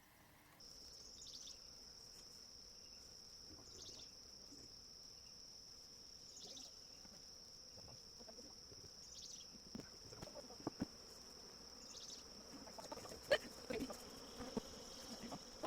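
An insect's steady high-pitched trill that starts just under a second in and holds one pitch, swelling slightly every couple of seconds. From about ten seconds in, scattered knocks and clatter of beehive parts being handled join it.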